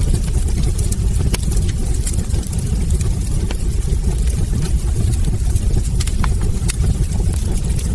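Wood fire burning in a fireplace: a steady low roar of flames with scattered sharp crackles and pops from the logs.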